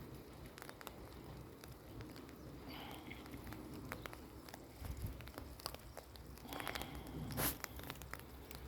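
Light rain pattering, with scattered drop ticks and a single louder knock about seven and a half seconds in.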